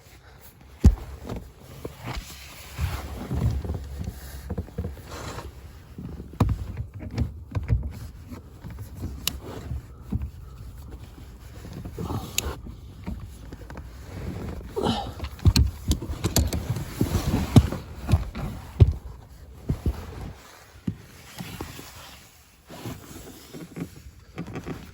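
Irregular knocks, clicks and scraping as a wrench is worked on the bolt of the steering column's cardan joint, tightening it to cure play that knocks in the steering, with rubbing and bumping of the hand-held microphone.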